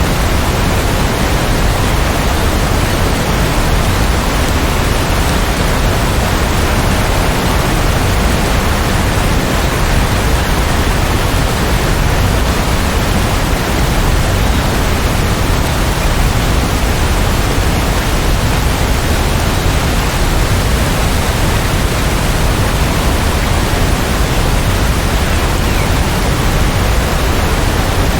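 Steady rainfall: a dense, even hiss with no distinct drops, thunder or change in level.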